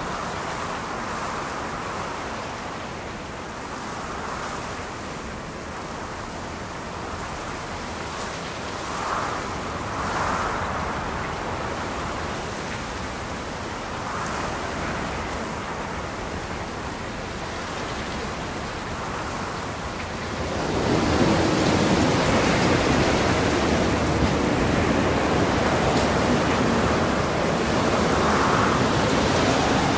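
Steady rushing of rain and wind, a storm sound bed, with gentle swells, growing clearly louder about twenty seconds in.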